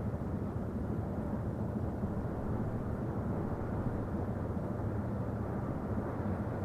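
Inland cargo barge's diesel engine running with a steady low drone.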